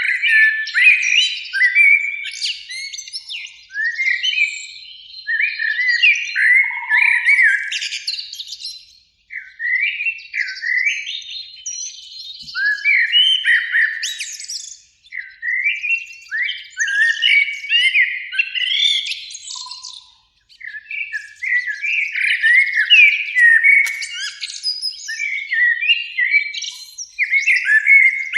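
Eurasian blackbirds singing: fluty, warbled phrases one after another, in bouts broken by short pauses.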